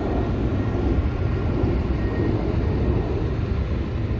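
Steady low outdoor rumble, even in level throughout, heaviest in the bass.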